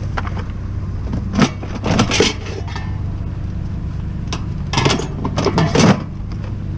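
Clinking and rattling of a metal appliance being handled, in short bursts about one and a half, two, and five to six seconds in, over a steady low engine hum.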